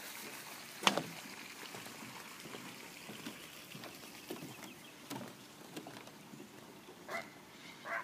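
A single sharp knock about a second in and a few faint taps, then two short harsh bird calls near the end.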